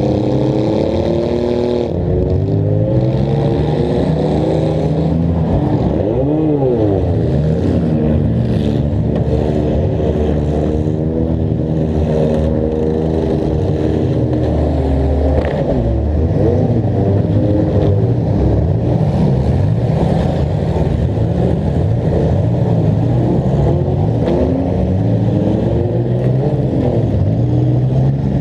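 Demolition derby car's engine heard close up from its hood, revving up and dropping back again and again, its pitch rising and falling every few seconds.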